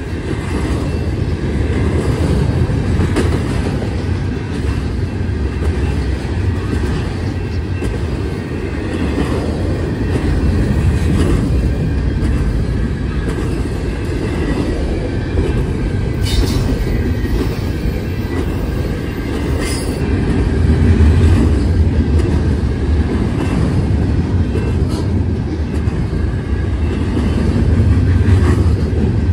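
Double-stack container well cars of a freight train rolling past: a steady low rumble of steel wheels on rail with rattling. Brief high squeals come about halfway through.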